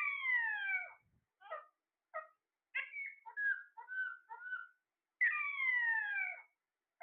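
Pet parrot calling: two long calls about a second each, falling steadily in pitch, one at the start and one about five seconds in, with short chirps between them.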